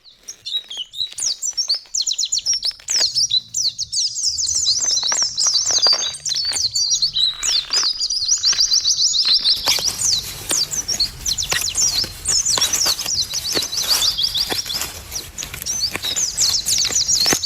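Songbirds chirping continuously: many rapid, high chirps and short trills overlapping, with a steady background hiss that grows louder about ten seconds in.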